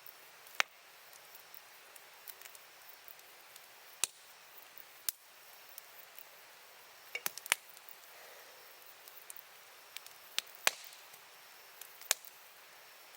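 Wood campfire crackling: sharp, irregular pops a second or a few seconds apart over a faint steady hiss.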